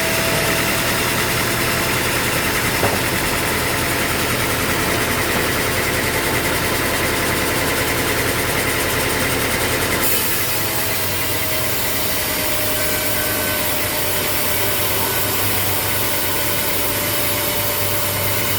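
Sawmill machinery running steadily under engine power, a continuous mechanical hum with a short click about three seconds in. The sound changes abruptly about halfway through, losing some of its high hiss.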